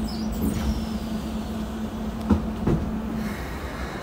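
Cabin noise inside a Keikyu 1000-series electric train, with a steady low hum that stops a little after three seconds. Two short knocks come about half a second apart, after about two seconds.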